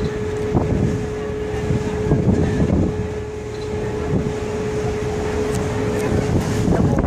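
A river tour boat's engine running steadily with a constant hum, and wind buffeting the microphone.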